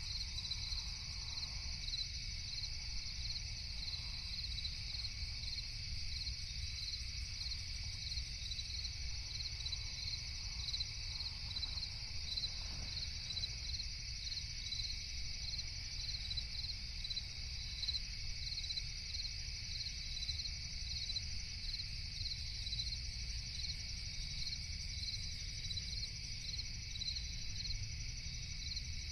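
Crickets chirping in a steady night chorus, with regular pulses repeating evenly over a continuous high trill, above a low rumble.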